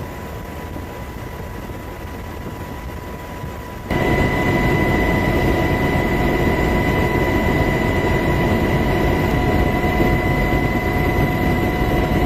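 Helicopter turbine and rotor noise, a steady drone with a high whine, that jumps abruptly louder about four seconds in and then holds steady.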